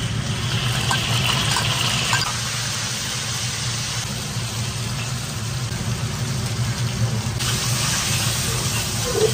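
Sliced marinated meat hitting hot oil in an iron wok and being stir-fried with a metal spatula: loud sizzling over a steady low hum. The hiss is brightest for the first two seconds and swells again about seven seconds in, as more ingredients go into the pan.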